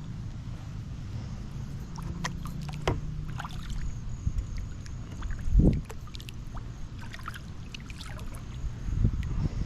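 Sounds of someone moving about in a kayak on the water: scattered clicks and light knocks over a low rumble, with one louder dull thump about halfway through and another knock near the end.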